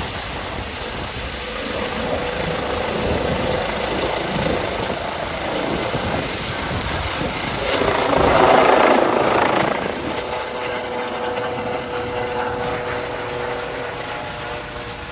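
Airbus EC135 P2 helicopter running with a steady hum, swelling into a louder rush of noise about eight seconds in and then easing off, growing slightly fainter near the end.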